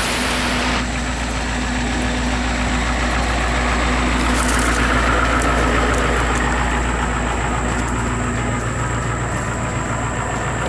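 An engine idling with a steady low rumble; a loud hiss cuts off about a second in.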